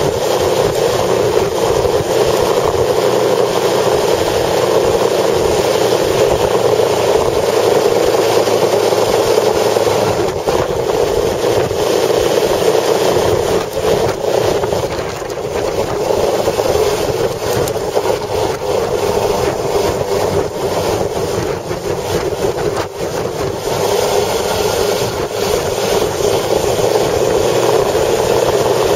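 Steady roar of road and wind noise from a vehicle travelling at speed in strong wind, with no clear engine note; it eases briefly twice in the middle.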